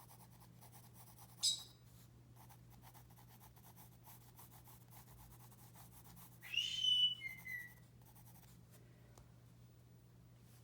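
Pet parrot giving a short high chirp, then a few seconds later a louder whistled call that holds a clear note and steps down to a lower one, over the soft scratching of a pencil shading on paper.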